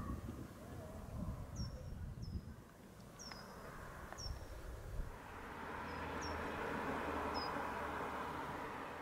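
A small bird repeats a short, high, down-slurred call about eight times. Wind rumbles on the microphone in the first few seconds, and a broad rushing noise swells about halfway through and holds to the end.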